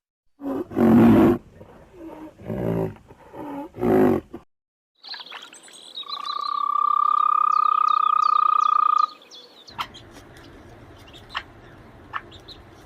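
Animal calls: four loud, low roars or growls in the first four seconds, then, after a brief silence, one long steady call lasting about three seconds with faint chirps above it, followed by a quiet outdoor background with a few sharp ticks.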